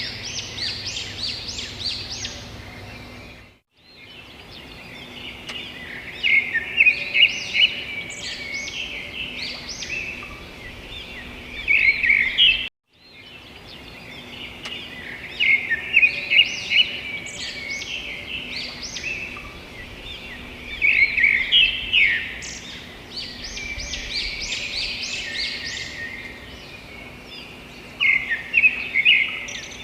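Several birds chirping and trilling, quick runs of short high notes that overlap and come in louder clusters. The sound cuts out completely for a moment twice, about four and thirteen seconds in.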